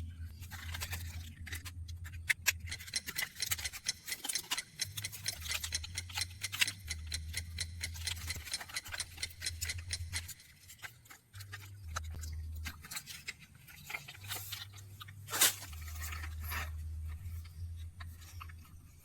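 Plastic parts of a toy JCB backhoe loader clicking, knocking and rattling as they are handled and snapped together, in many small irregular clicks with one louder knock about fifteen seconds in, over a low hum.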